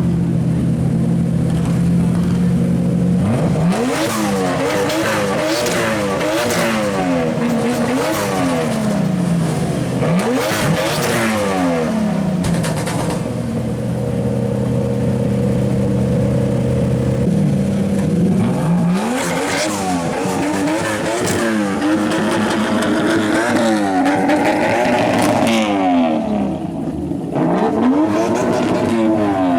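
Turbocharged drift car engine idling, then revved hard in repeated quick rises and falls, with sharp exhaust pops and bangs from its anti-lag system. About halfway through it settles back to a steady idle for several seconds, then revs and bangs again.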